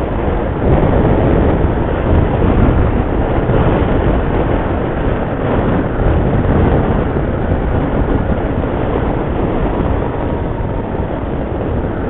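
Riding noise from a moving motorcycle: steady wind rush over the microphone with engine and road noise underneath, a little louder from about half a second in.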